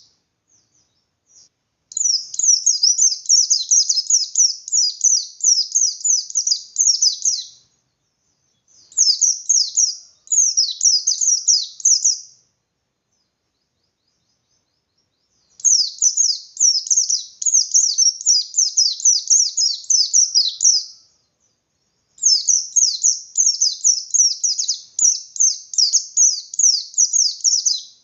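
Pleci bustomi white-eye singing in full 'ngalas' style, its continuous challenging song: long runs of quick, high, downward-sweeping notes, about four a second, in four bursts with short pauses between.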